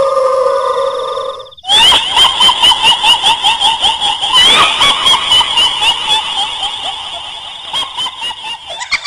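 A long, held wail that stops about a second and a half in. After a brief break comes a shrill, cackling ghost laugh in quick pulses, about four a second, easing off toward the end. This is the kuntilanak ghost-laugh sound effect.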